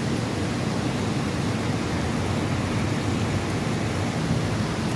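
Heavy rain falling steadily: a dense, even rush of a downpour with no let-up.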